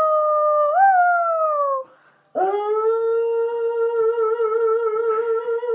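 Pet dog howling: two long howls. The first jumps up in pitch about a second in, then slides down and stops. The second starts about two and a half seconds in and is held on one steady note with a slight waver.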